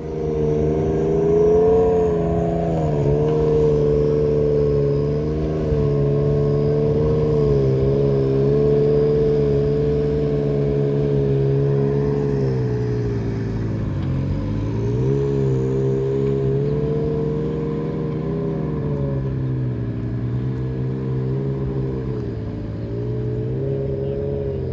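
Car engine running steadily under way, its note holding and wavering slightly. About halfway through the revs drop briefly and then climb back.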